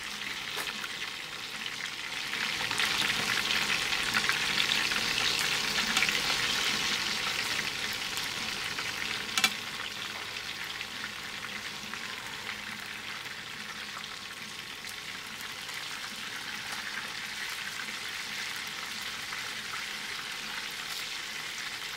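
Hot oil sizzling around battered chicken pieces frying in a pan, swelling louder between about two and seven seconds in, with one sharp tap a little after nine seconds.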